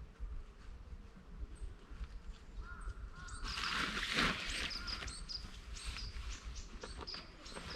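Small bird chirping repeatedly in short, high calls about two or three times a second, over a low outdoor rumble. A louder rustle lasts about a second and a half, a little before the middle.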